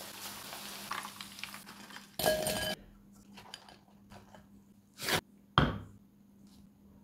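Battered chicken sizzling in hot frying oil, then a spoon clinking and scraping against a glass bowl as the fried chicken is tossed in sauce. A loud half-second burst about two seconds in and two short loud sounds about five seconds in stand out above the rest.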